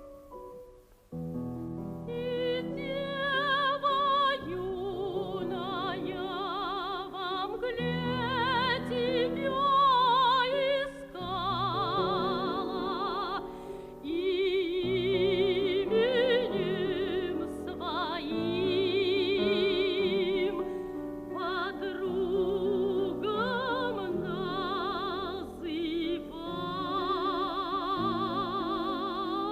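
Soprano singing a Russian art song in operatic style with wide vibrato, accompanied by piano, after a brief pause about a second in. The recording is dull-sounding, with nothing above the upper treble.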